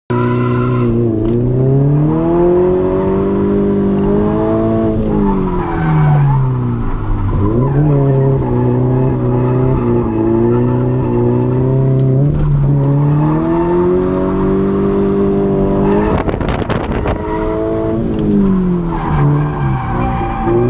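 Subaru BRZ's FA20 flat-four with a catless test pipe and custom cat-back exhaust, heard from inside the cabin, revving up and falling back again and again through drift slides, with tyres squealing.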